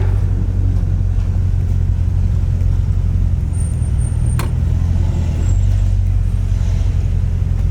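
A Corvette's engine and road noise while driving, a steady low drone, with a single sharp click about four and a half seconds in.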